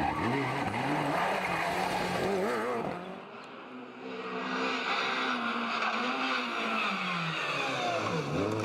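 Rally car engines revving hard at stage speed, their pitch climbing and dropping again and again through gear changes and lifts, over a rushing noise from the car. The sound briefly drops away about three seconds in, then the engine note picks up again.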